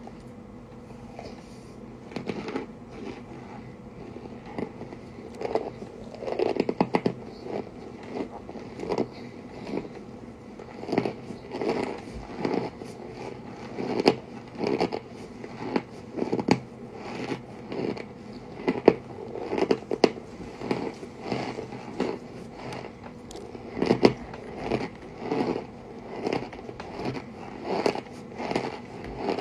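Close-miked biting and chewing of chunks of Argo cornstarch: a long run of dry crunches, about one or two a second.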